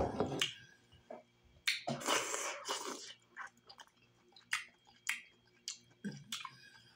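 Close-up wet chewing and lip-smacking of a mouthful of chitterlings (pork intestines), in irregular clicks and smacks, with a longer, louder wet sound about two seconds in.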